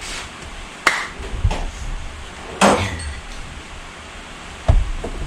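Hand tools knocking and clinking against metal: four sharp, irregularly spaced metallic knocks with brief ringing.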